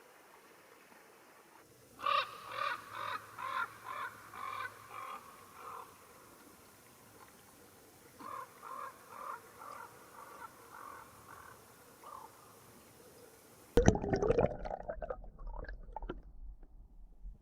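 A crow cawing in two runs of harsh, evenly repeated caws, about two a second, with a pause between the runs. Near the end, louder rustling with a low rumble starts suddenly.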